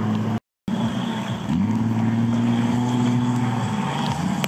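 Off-road 4x4's engine running hard at steady revs. The pitch dips and climbs back about a second and a half in, then changes again near the end. The sound drops out completely for a moment just after the start.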